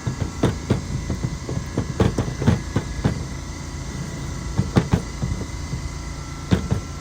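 Irregular knocks and clicks of hand tools and engine parts being handled while a string trimmer is taken apart, louder knocks in clusters about two to three seconds in and again near the end.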